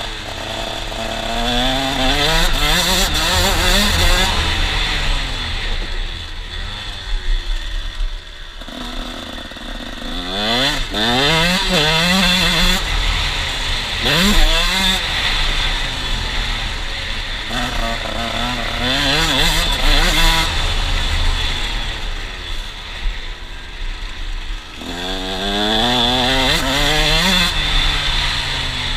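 KTM 125 SX single-cylinder two-stroke motocross engine at high revs, in four surges of acceleration. Its pitch climbs in steps as it shifts up through the gears, then drops back as the throttle is let off, around 8 s and 24 s in.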